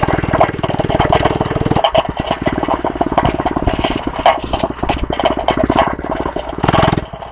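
Small single-cylinder gas engine of a mini bike running. It eases off about two seconds in and picks up again near the end.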